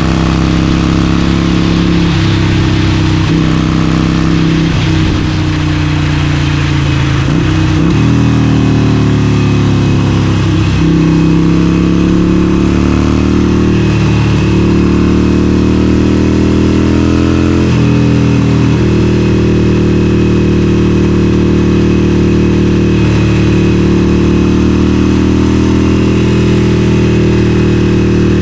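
Harley-Davidson Forty-Eight's air-cooled 1200 cc V-twin running under way at road speed. Its note dips and climbs back several times in the first ten seconds or so and once more about eighteen seconds in, then holds steady.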